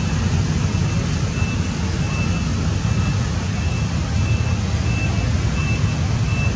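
Steady low rumbling background noise, with a short high-pitched tone repeating about every three-quarters of a second.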